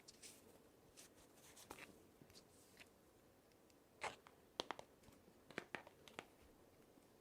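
Jewellery packaging handled by hand: soft paper rustling and crinkling with a string of short, sharp clicks and taps, loudest from about four seconds in.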